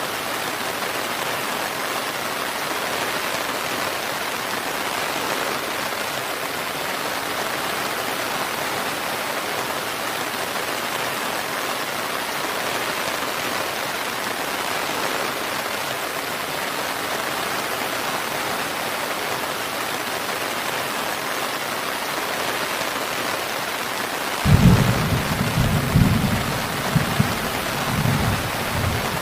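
Steady, even rainfall hissing on surfaces, with a loud low rumble of thunder starting about 24 seconds in and rolling in several swells to the end.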